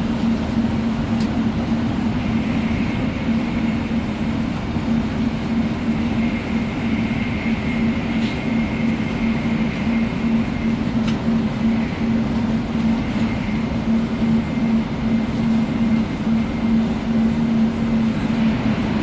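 Running sound heard inside a JR West F-set 300 series Shinkansen car as the train runs steadily. There is a continuous low hum with a faint high whine above it, and a few brief clicks.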